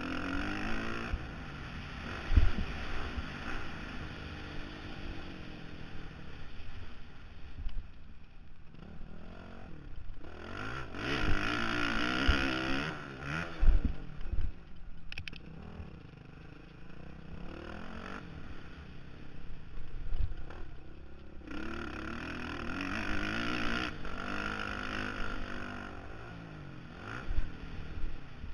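Honda CRF450R single-cylinder four-stroke dirt bike engine revving up and easing off again and again as the bike runs around a motocross track, heard from a helmet-mounted camera with wind noise. A few sharp thumps come through, about two seconds in, midway and again after twenty seconds.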